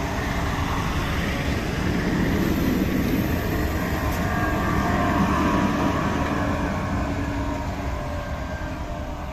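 A train passing, with a steady rumble of wheels and running gear that slowly fades near the end.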